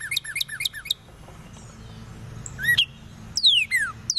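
Northern cardinal song: a fast run of short repeated notes for about the first second, then after a pause one upswept note and a series of loud down-slurred whistles repeated about every half second.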